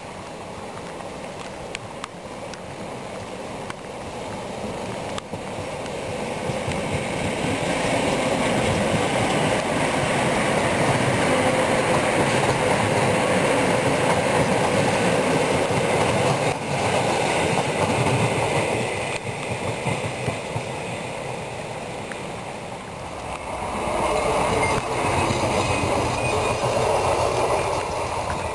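Passenger train passing on the track, its rumble and wheel noise building over several seconds to a steady loud run, easing off, then swelling again near the end.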